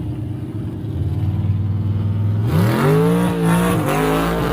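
A car engine idling low and steady, then revved hard about two and a half seconds in, held high with a couple of quick dips, and beginning to drop back near the end.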